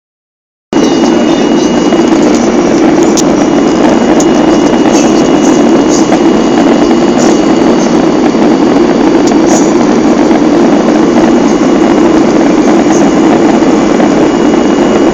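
Loud, steady drone of aircraft engines and airflow heard inside a passenger cabin, starting abruptly a moment in, with a few faint ticks over it.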